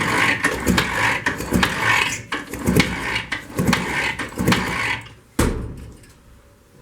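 IZh Jupiter 3 two-cylinder two-stroke engine being turned over without starting, in rough mechanical strokes about once a second, to spin a newly fitted 12-volt generator for a spark test. A single sharp knock comes about five seconds in, then it goes quieter.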